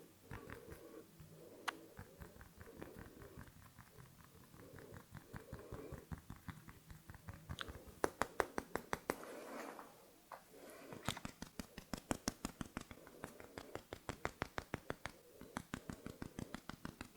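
Close-miked ASMR trigger sounds: runs of quick, evenly spaced clicks, about six or seven a second, over soft rustling.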